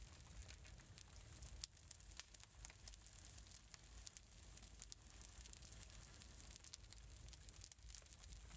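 Faint wood fire crackling in a fireplace: a steady hiss with irregular small pops and snaps, over a low rumble.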